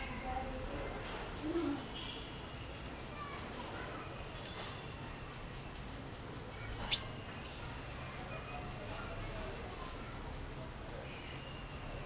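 Small birds chirping: short, high, thin notes repeated every second or so. A single sharp click about seven seconds in.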